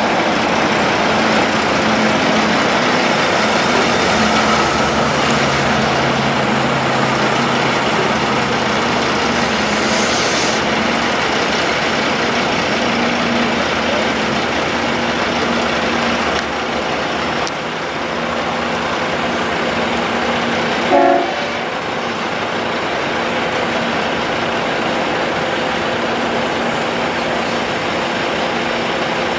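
Heavy haulage trucks' diesel engines running under a loud, steady roar of road noise, with a short horn toot about two-thirds of the way through.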